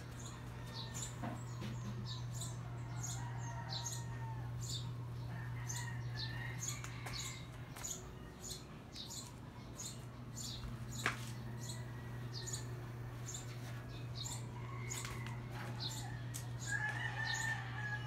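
Small birds chirping in short high notes, two or three a second, over a steady low hum. A single sharp click sounds about eleven seconds in.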